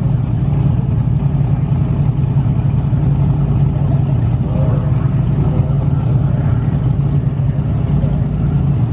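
Ford Mustang's engine idling at the drag strip's starting line, a steady low rumble with no revving.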